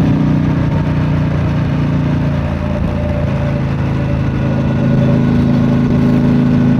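Triumph Street Scrambler's 900 cc parallel-twin engine running through its stock exhaust at a steady pace; the engine note drops slightly a couple of seconds in, then picks back up and holds steady.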